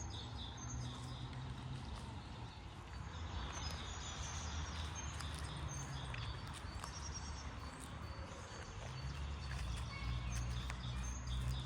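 Small birds chirping here and there, over the crunch of footsteps on a trail. A steady low rumble runs underneath and grows louder near the end.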